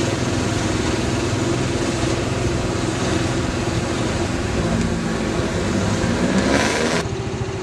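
A 110cc single-cylinder motorcycle engine running on the move, with wind noise on the microphone. The engine note rises and falls briefly about five seconds in.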